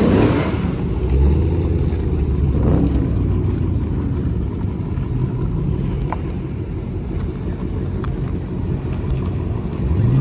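A car engine running at idle with a steady low rumble. It revs briefly at the very start.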